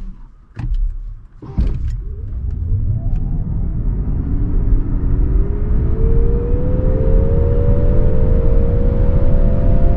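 Nissan Ariya e-4ORCE's twin electric motors whining under full-power acceleration from a standstill. The whine rises steadily in pitch as speed builds, over a growing rumble of tyre and road noise. Two short knocks come in the first two seconds, just before the car pulls away.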